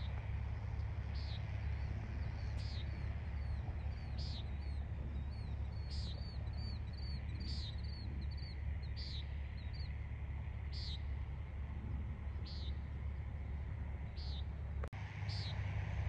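Birds calling over a steady low rumble: a short high call repeats about once every second or so, and from about six seconds in a run of quick rising-and-falling chirps joins it. The sound drops out for an instant near the end.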